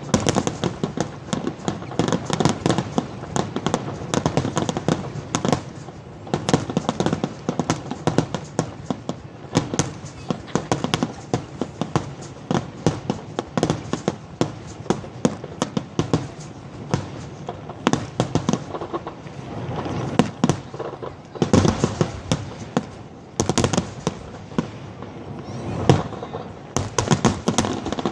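Fireworks finale: a rapid, nearly unbroken barrage of aerial shell bursts and crackling, heard from a distance, growing denser near the middle and again near the end.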